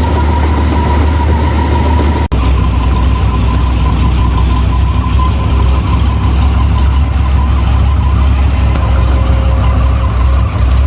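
Rice combine harvester running steadily while harvesting paddy: a heavy engine drone with a steady high whine over it. The sound drops out for an instant about two seconds in.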